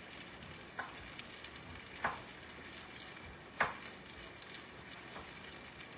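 Knife slicing pork belly on a cutting board, the blade knocking down on the board four times, roughly every one and a half seconds, over a steady faint hiss.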